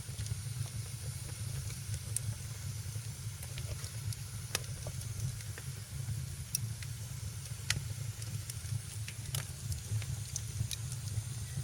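Fireplace fire crackling: irregular sharp pops scattered over a steady low rumble and a soft hiss.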